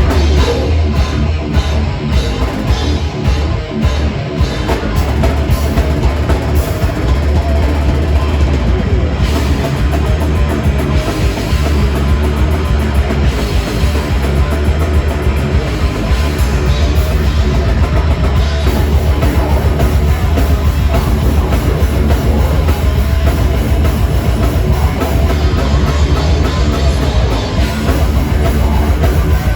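Heavy metal band playing live, loud and dense, with a drum kit and guitars.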